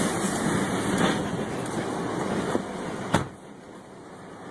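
Tornado wind rushing and buffeting around a vehicle. A sharp knock comes about three seconds in, after which the rushing is much quieter.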